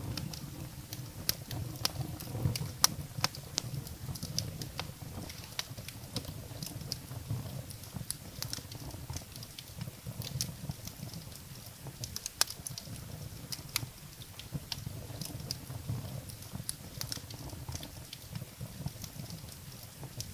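Wood fire burning in a fireplace, crackling and popping: irregular sharp snaps, several a second, over a low steady rumble of the flames.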